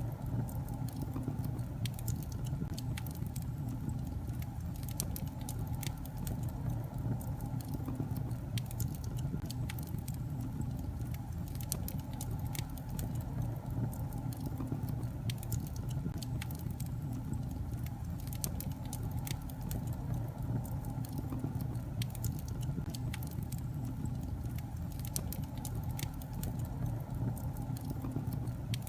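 Wood fire burning in a fireplace, with irregular sharp crackles and pops of the logs over a steady low rumble of the flames.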